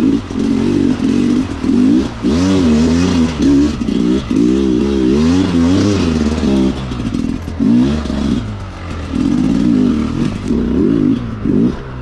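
Dirt bike engine revving up and down over and over, its pitch rising and falling every second or so, with short dips where the throttle closes.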